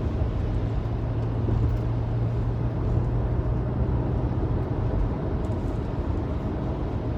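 Car cabin noise while driving on snowy, slushy roads: a steady low engine and road rumble with tyre noise, the low hum easing off about two-thirds of the way through.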